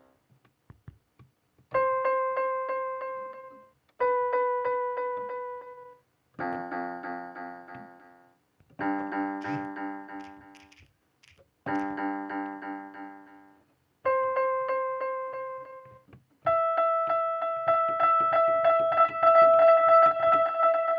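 A keyboard instrument with a piano-like sound plays a wordless tune in short phrases of rapidly repeated notes. Each phrase lasts about two seconds and is followed by a brief silence, and the last phrase, near the end, runs longer.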